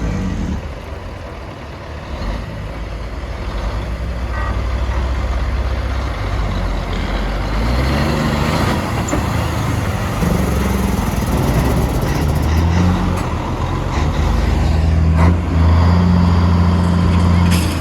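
Semi-truck diesel engines running as big rigs roll past. The low engine drone builds about halfway through and is loudest near the end.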